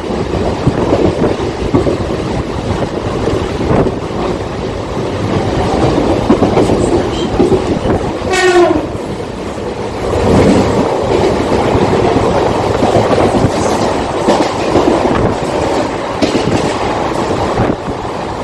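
Mumbai suburban local train running at speed: a steady rumble and rattle of wheels on the track. A short train horn blast sounds about eight seconds in.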